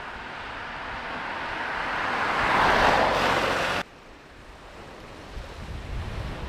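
Sea waves washing on the shore with wind, swelling to a peak and then cut off suddenly about four seconds in. A quieter stretch of wind buffeting the microphone follows.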